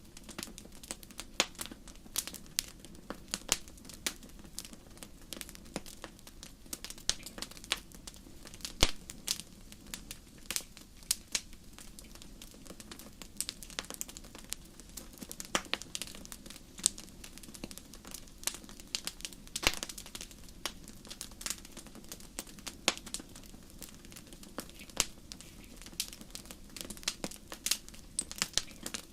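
Fire in a fireplace crackling: irregular sharp pops and snaps, a few louder than the rest, over a soft steady hiss.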